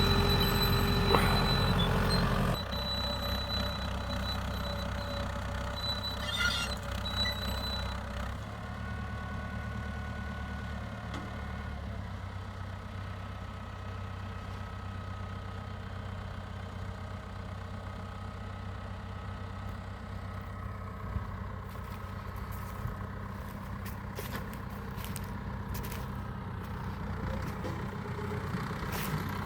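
Ford 6600 tractor's diesel engine running steadily while plowing. It is louder for the first two or three seconds, then drops to a quieter, even level for the rest.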